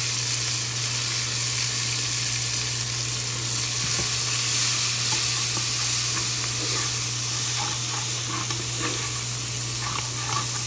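Diced onion and bell pepper frying in hot bacon fat in a nonstick pot, with a steady sizzle. A spatula stirs them, adding light scrapes and taps in the second half.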